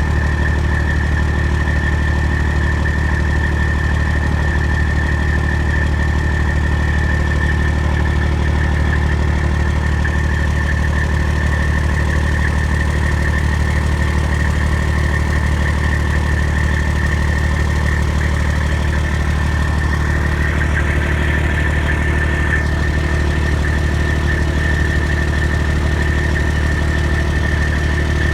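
Detroit Diesel Series 60 14-litre diesel engine idling steadily, with a rapid metal-to-metal clicking heard from the exhaust and a steady high whine over the running. The owner suspects the clicking is a fault, though the repair shop calls it normal.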